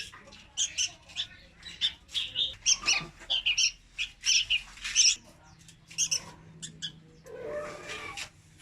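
Juvenile red-whiskered bulbul calling: a rapid run of short, high chirps, several a second. About seven seconds in there is a rougher, lower call lasting about a second.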